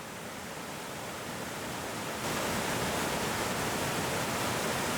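Waterfall rushing steadily into a creek, a constant even roar of falling water that grows louder a little over two seconds in.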